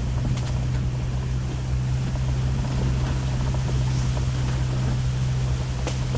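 Steady low drone of a 1999 Jeep Cherokee XJ being driven, engine and road noise with wind on the microphone, and a brief sharp knock about half a second in and again near the end.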